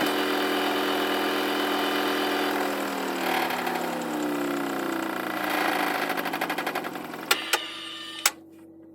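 Washing machine motor running with a steady whine that falls in pitch from about two and a half seconds in as the drum slows, then a fast pulsing, three sharp clicks near the end, and a quieter hum.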